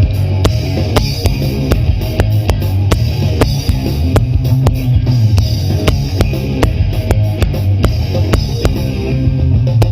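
Instrumental rock music with a steady drum-kit beat, guitar and bass, with no singing.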